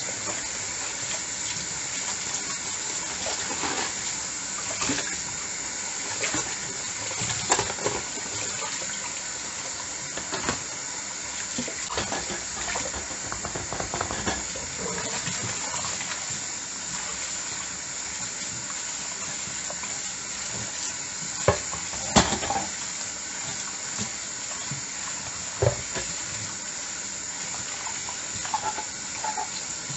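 Dishes being washed by hand under a running tap: a steady rush of water into the sink with scattered clinks and knocks of dishes and utensils, the loudest a cluster of knocks about two-thirds of the way through.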